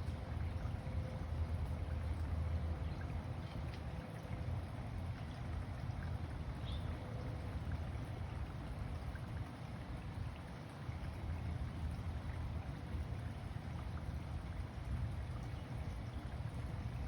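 Wind rumbling and buffeting on the microphone outdoors, a low, uneven rumble with a faint steady hum behind it.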